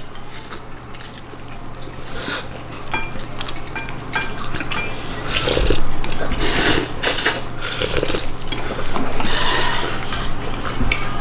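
Spoons and chopsticks clinking and clattering against bowls and dishes at a meal of noodle soup, with scattered sharp clicks and a louder spell of clatter about halfway through, over a steady low hum.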